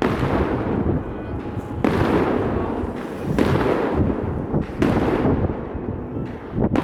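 Aerial firework shells bursting in quick succession: about five loud booms a second and a half to two seconds apart, each trailing off into a rumbling echo.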